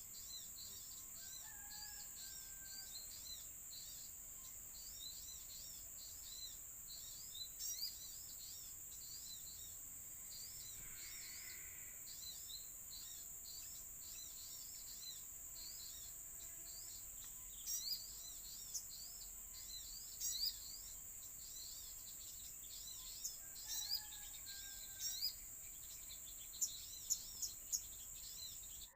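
Small birds chirping: a quick, steady run of short, high calls, two to three a second, over a steady high insect drone. A few louder sharp calls stand out in the second half.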